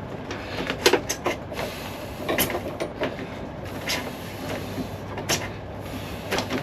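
A few light knocks and clicks of parts being handled, spread out one at a time over a steady low hum.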